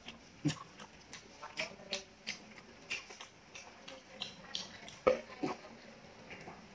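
Close-miked eating: chewing of curried beef with wet lip smacks and mouth clicks in an irregular run, two sharper smacks standing out about half a second and five seconds in.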